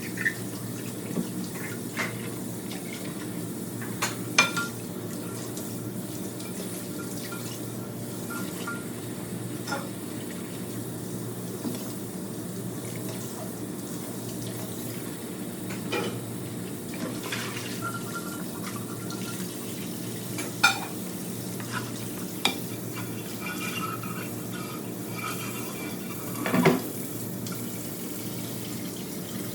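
Dishes and cutlery being hand-washed in a sink: water running, with a few sharper clinks of crockery scattered through.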